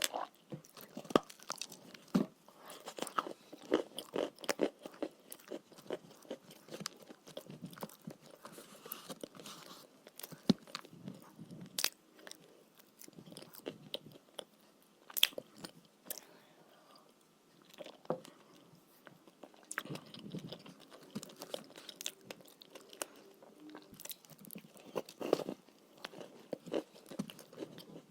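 Eating edible chalk with paste, close-miked: sharp crunching bites every few seconds, with softer chewing crackle between them.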